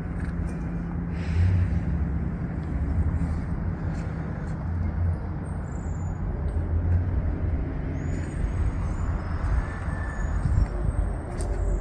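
Outdoor snowstorm ambience: a low, uneven rumble of wind with the sound of road traffic, and a few faint high chirps about two-thirds of the way in.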